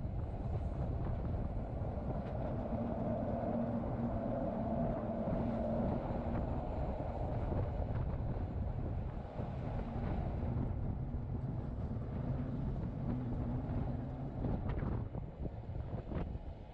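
Rhaetian Railway electric train running on the Bernina line, heard from the side of a moving coach: a steady low rumble of wheels on rail with wind buffeting the microphone and a faint hum that comes and goes.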